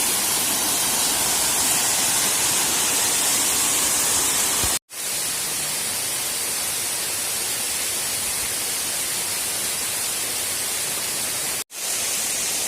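Waterfall rushing, a steady loud hiss of falling water with two brief silent breaks.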